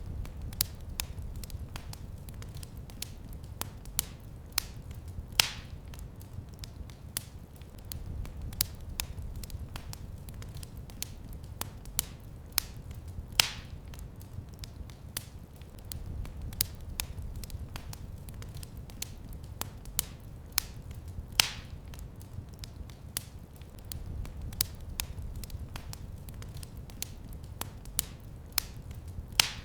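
Wood fire in a fireplace crackling: a steady stream of irregular small snaps over a low rumble of the flames, with a louder pop about every eight seconds.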